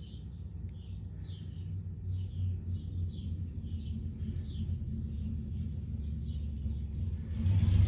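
A bird chirping over and over, about two short falling calls a second, over a steady low hum. Near the end a louder, rushing noise comes in.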